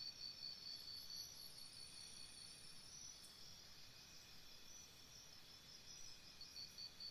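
Faint outdoor ambience with insects chirping: a high, even pulse of about four chirps a second near the start, fading in the middle and returning near the end, over a steady faint high trill.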